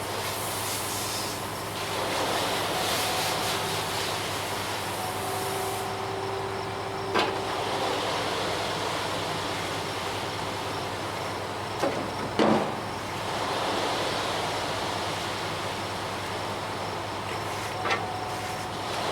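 Ready-mix concrete truck running steadily with a low hum and a hiss, broken by a few sharp knocks.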